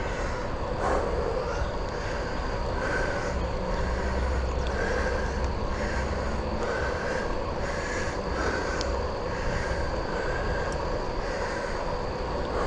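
Steady wind rush and low rumble on the microphone of a bicycle being ridden in the rain, with the hiss of tyres rolling on a wet trail.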